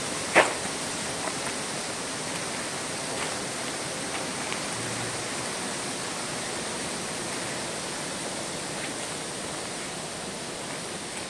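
Steady, even rushing hiss of the forest's ambience, with one sharp snap about half a second in, a footstep on the forest floor.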